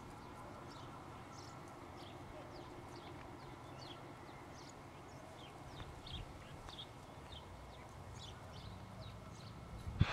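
Small birds chirping over and over, short quick falling chirps, over a low steady rumble.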